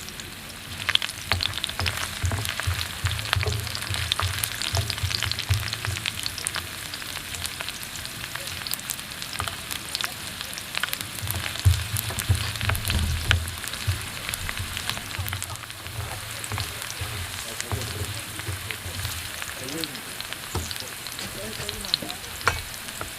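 Gambas cooking in olive oil in a frying pan, sizzling steadily with many sharp crackles and pops. Stretches of low thudding run under it.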